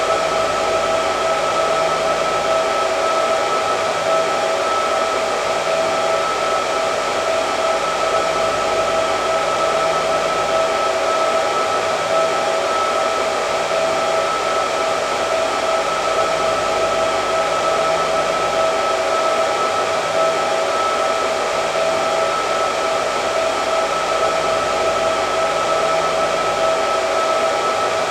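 Hair dryer running continuously, its steady whoosh of airflow carrying a constant whine in its pitch.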